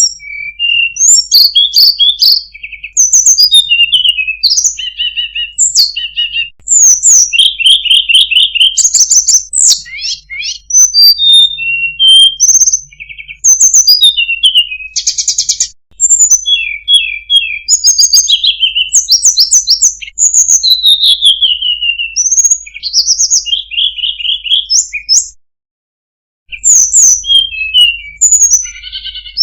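Recorded songbird song, loud and continuous: fast, varied chirps, rattling trills and falling whistles strung together with barely a pause, used as masteran song-training material. There is a brief break about sixteen seconds in and about a second of silence near 26 seconds.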